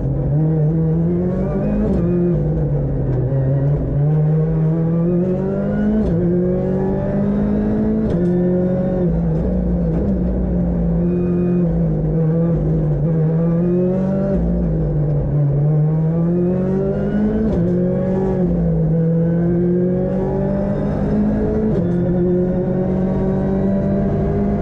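Ford Fiesta R5 rally car's turbocharged four-cylinder engine at full effort, heard from inside the cabin. Its note climbs and drops again and again, every couple of seconds, as the car accelerates, shifts and slows for corners on a rally stage.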